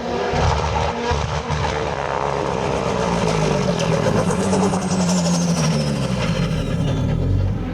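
Hillclimb race car's engine running hard at full throttle as it passes, with a high whine that falls slowly in pitch over several seconds.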